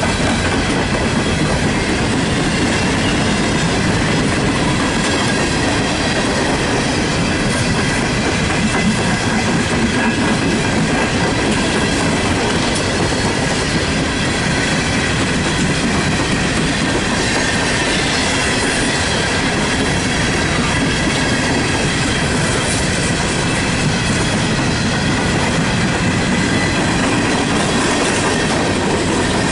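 Empty coal cars of a CSX freight train rolling past close by: a steady, loud rumble and clatter of steel wheels on the rails.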